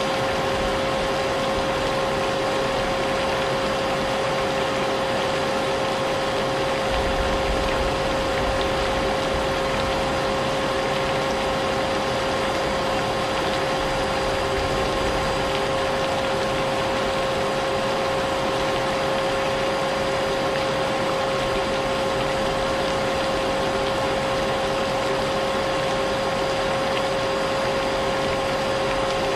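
Vacuum cleaner running steadily, its motor whine a constant tone over a broad hiss, mixed with rain. A brief low rumble comes about seven seconds in.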